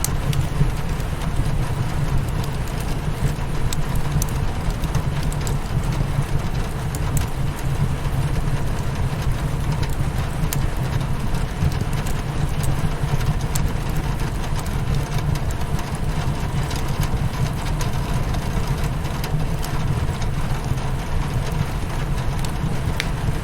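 Steady rain against a windowpane with a low, even rumble, and the scattered small crackles and pops of a wood fire burning in a fireplace.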